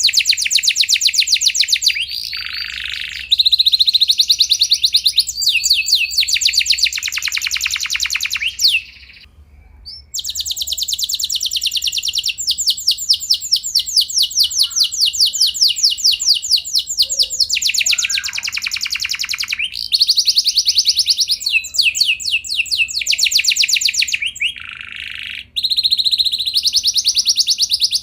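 Domestic canary singing long, rapid rolling trills, phrase after phrase, with a short break about nine seconds in.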